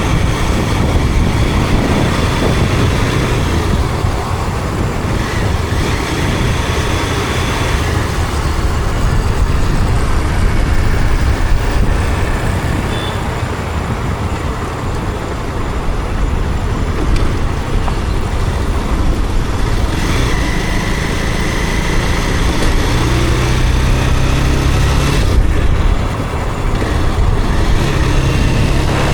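Motorcycle engine running steadily while riding, mixed with road and wind noise and the sound of surrounding traffic.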